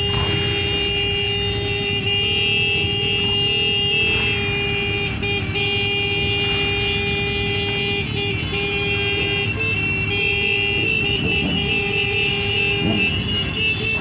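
A horn held in a long, steady blare, wavering slightly, over the continuous rumble of many motorcycle engines riding past.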